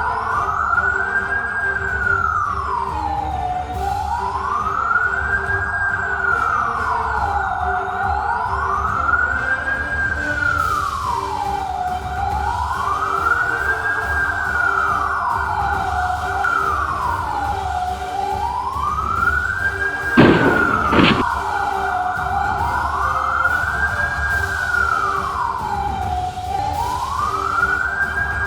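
Emergency-vehicle siren in a slow wail, rising and falling about once every four seconds, over a low road rumble. Two sharp knocks about twenty seconds in.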